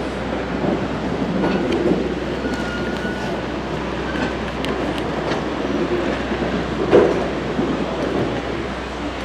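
Train cars rolling on the rails: a steady rumble with scattered wheel clicks and a short, thin squeal. A single loud clank comes about seven seconds in.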